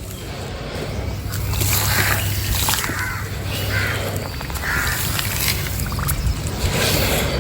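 A bird calling over and over, short calls roughly once a second, over a steady low hum.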